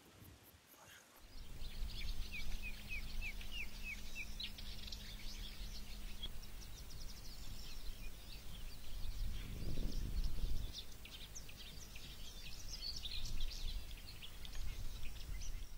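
Songbirds chirping and singing, including a quick run of repeated chirps about two seconds in, over a low steady rumble that swells briefly about ten seconds in.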